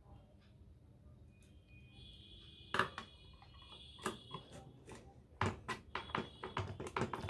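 Clicks and knocks from handling a restored Bluetooth USB/FM player box, getting more frequent in the second half. A faint steady high-pitched tone comes in about a second and a half in.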